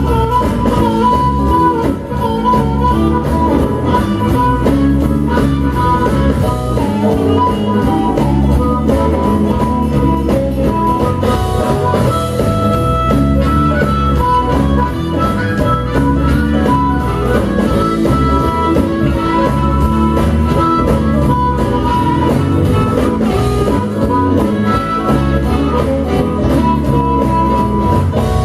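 Live blues band playing, with guitar prominent.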